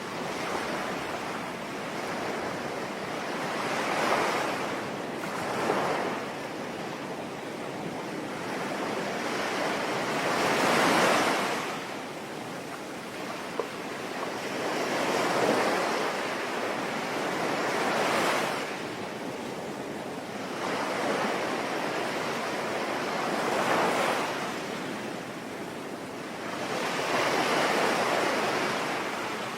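Sea waves breaking and washing on a shore, swelling and fading every few seconds over a steady hiss of falling rain.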